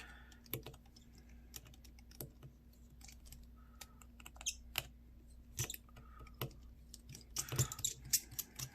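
Irregular small clicks and taps of a screwdriver and small tools being handled against a plastic flip phone and toolkit, with a quicker run of clicks near the end. A faint steady hum underneath.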